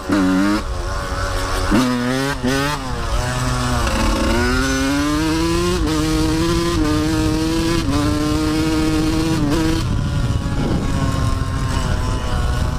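Dirt bike engine on the move, revving up and dropping back several times in quick succession in the first few seconds as it goes through the gears. It then climbs more slowly to a steady higher pitch and eases off about ten seconds in.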